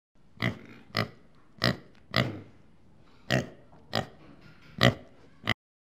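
A pig grunting: eight short oinks in a row, then the sound cuts off suddenly.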